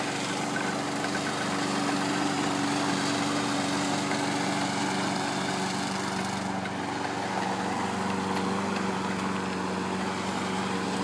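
Lawn mower engine running steadily, with a slight change in its tone about seven seconds in.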